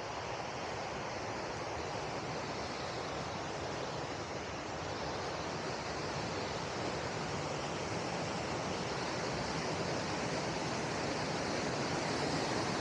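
River water rushing steadily, a continuous hiss of flowing water that grows slightly louder near the end.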